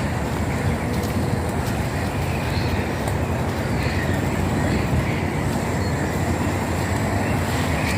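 Steady rumble of an all-terrain power wheelchair driving along a wet, rooty path, its motors and tyres running continuously.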